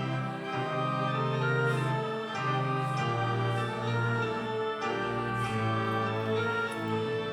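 Church organ playing a hymn in slow, held chords that change about once a second.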